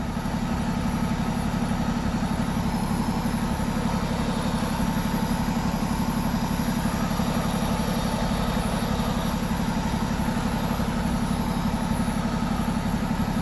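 A vehicle engine idling steadily, with an even low drone.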